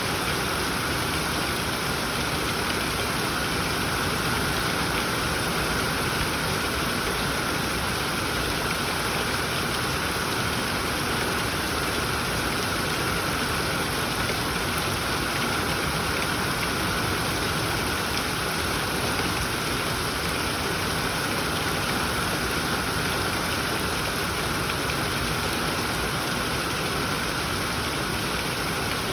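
Steady tropical rain falling, an even hiss of drops that holds at the same level throughout.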